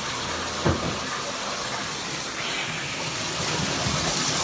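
Tap water running steadily from a faucet into a bathtub, with a single brief bump about two-thirds of a second in.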